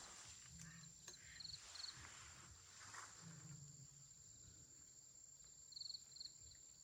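Near silence with faint insect chirps: a few short pulsed trills, twice around a second and a half in and twice near the end, over a steady faint high-pitched tone.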